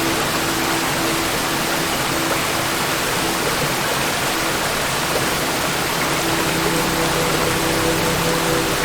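Waterfall: water falling and rushing in a steady, dense roar, with faint held tones underneath that drop out about halfway through and return near the end.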